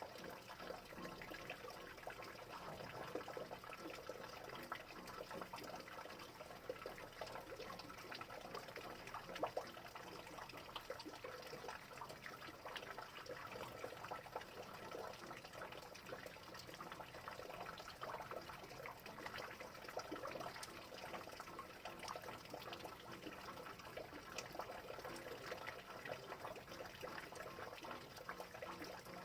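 Steady rain falling, an even wash of noise dotted with many small irregular drop ticks.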